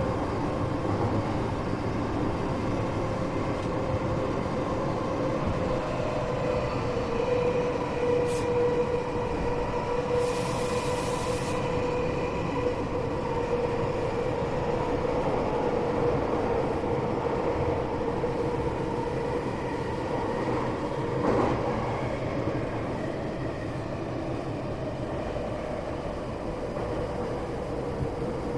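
Tokyo Metro 8000 series train running at speed, heard from inside a passenger car: a steady running rumble with a steady motor tone. A brief hiss comes about ten seconds in and a single knock about twenty-one seconds in.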